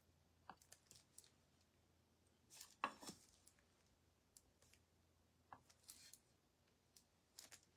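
Near silence broken by faint, scattered small clicks and taps, with a slightly louder cluster of taps about three seconds in.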